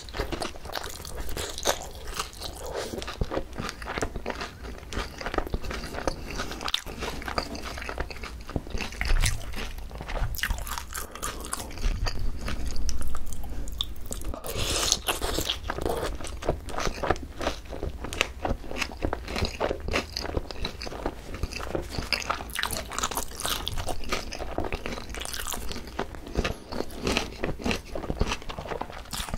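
Close-miked chewing and crunching of Korean green onion chicken: crisp boneless fried chicken and shredded raw green onion, as irregular crunchy bites and wet chewing. The crunching is busiest and loudest about halfway through.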